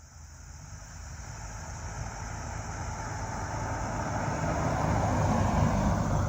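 A motor vehicle's engine growing steadily louder as it approaches, peaking near the end and starting to fade as it passes.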